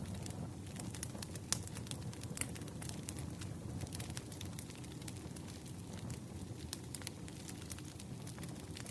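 Wood fire crackling: irregular sharp pops and snaps of burning firewood over a low steady rumble, with one louder pop about a second and a half in.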